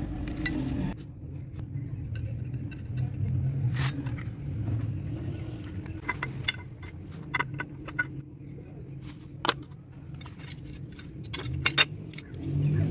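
Scattered metallic clinks and knocks of tools and parts being handled, over a steady low hum.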